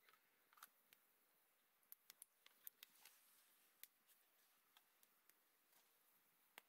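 Near silence with faint, sharp clicks or crackles at irregular intervals, about a dozen of them.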